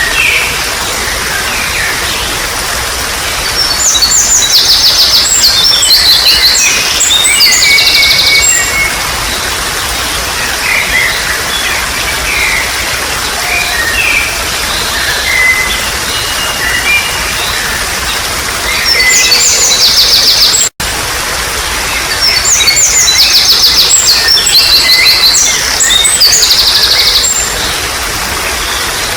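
Water trickling steadily, with wild songbirds singing over it in loud bursts of fast, high trills, about four seconds in and again from about nineteen seconds on. The sound cuts out for an instant at about twenty-one seconds.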